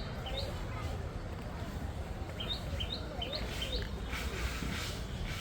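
A small bird chirping: two quick high chirps near the start, then a run of about five about halfway through. Under it runs a steady low rumble, with faint distant voices.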